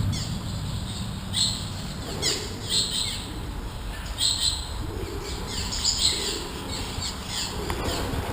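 Birds chirping: a run of short, high calls, several a second in clusters.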